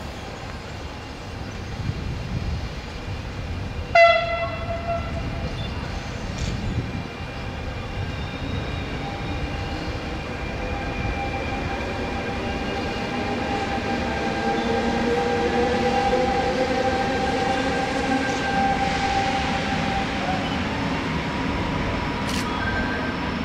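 FS E656 'Caimano' electric locomotive hauling a historic passenger train into a station: a short horn blast about four seconds in, then the rumble of the train rolling in, with several steady whining tones that grow louder and then ease off.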